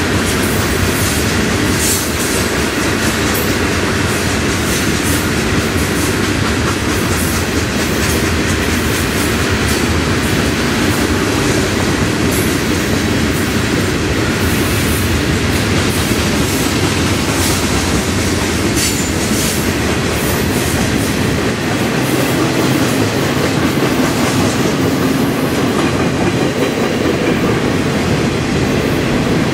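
Freight train cars rolling past close by: a steady loud rush of steel wheels on rail with clickety-clack and sharp clacks over the rail joints. The cars are hopper cars and then container-carrying intermodal cars, and the deep rumble lessens about two-thirds of the way through.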